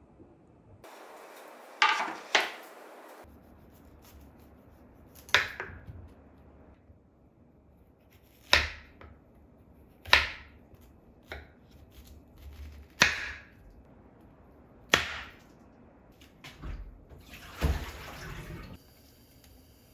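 A series of separate sharp knocks or clacks, one every second or few seconds, each dying away quickly, over a quiet steady background.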